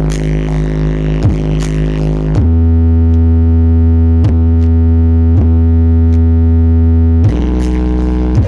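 Loud music played through a large sound system under test, with heavy sustained bass notes and a sharp click roughly every second. The bass shifts to a deeper, fuller note about two and a half seconds in and changes back near the end.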